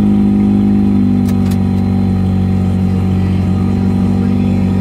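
1984 Mazda RX-7's rotary engine running steadily on a cold start, being nursed by hand because the choke doesn't work. Its speed steps up slightly about a second in.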